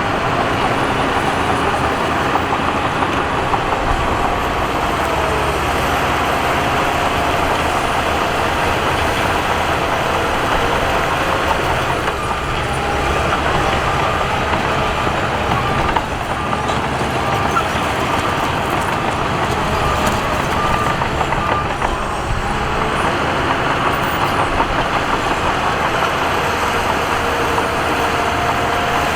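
Heavy diesel earthmoving machinery running steadily under load, a dense engine noise with a faint whine on top.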